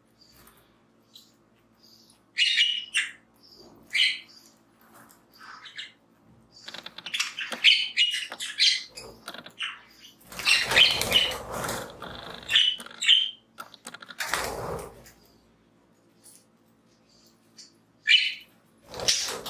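Pet budgies chirping in short, scattered calls, with two longer rustling, fluttering bursts in the middle.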